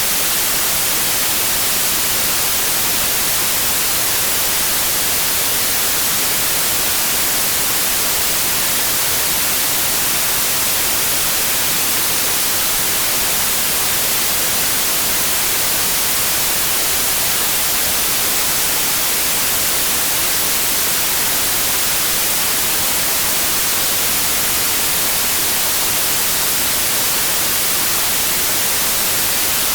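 Steady white noise: an even, unchanging hiss strongest in the treble, played continuously as a sleep aid for babies.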